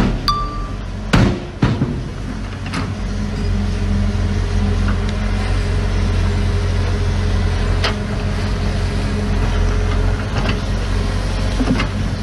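Heavy diesel engine of earthmoving machinery running steadily under a low, even hum, with a few sharp metallic knocks, most of them in the first three seconds.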